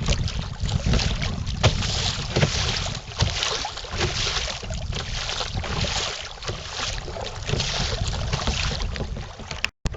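Strong wind rumbling on the action camera's microphone, with choppy waves splashing and slapping around the kayak in repeated surges about once a second. The sound drops out briefly near the end.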